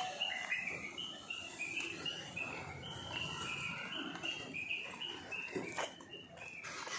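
Birds chirping: a continuous run of short, high chirps at shifting pitches, with a single sharp click near the end.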